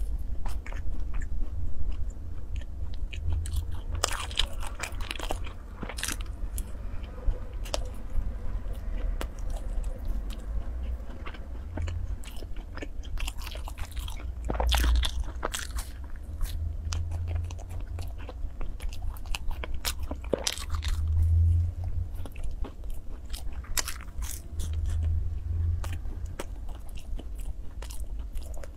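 A person biting into and chewing sachima, soft Chinese puffed fried-dough bars with raisins: a steady run of chewing with many short sharp clicks and smacks.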